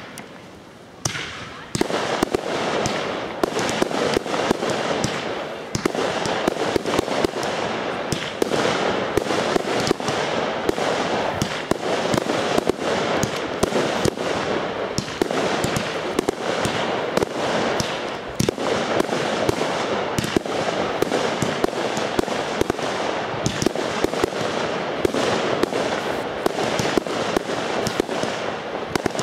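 Aerial fireworks going off: after a short lull, a dense, unbroken run of bangs and crackling with many sharp reports a second.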